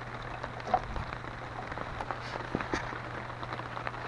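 Rain falling on a tarp overhead: a steady hiss with many irregular drop ticks on the sheet.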